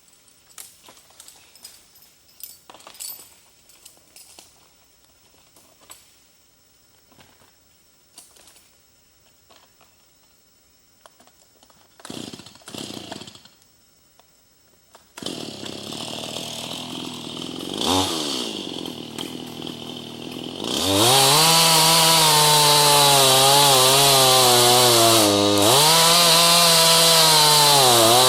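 Gas chainsaw: faint handling clicks, then two pull-starter tugs about twelve seconds in. The engine catches a few seconds later and idles with one quick blip of the throttle, then runs at full throttle, its pitch wavering and dipping briefly near the end.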